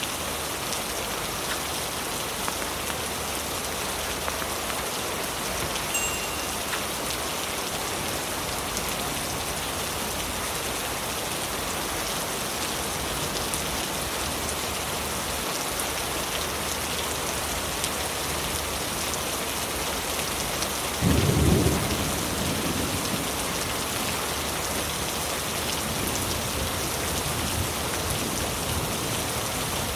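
Heavy rain falling steadily on leaves. About two-thirds of the way through, a deep thunder clap breaks in and rumbles on for a few seconds as it fades.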